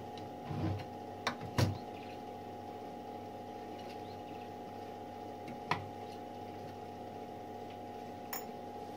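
Small metal clicks and knocks from a Klein Adler typewriter being taken apart with hand tools: a few in the first two seconds, then single ones in the middle and near the end, over a steady background hum.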